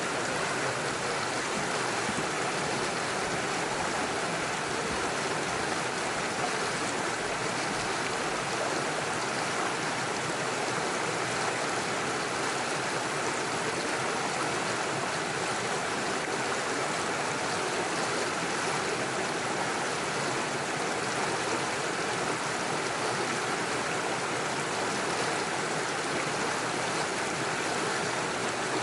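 Small mountain stream rushing steadily over stones and little waterfalls, an even, unbroken water noise.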